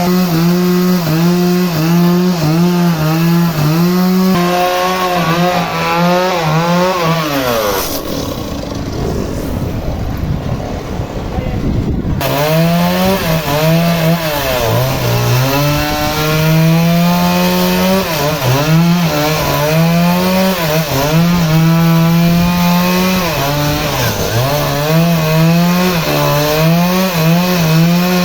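Engine-driven saw cutting through a teak root, its engine pitch dipping and recovering again and again as the blade bites into the wood. For about four seconds in the middle the engine tone drops away and a rough low rumble of cutting noise is left, before the engine tone returns.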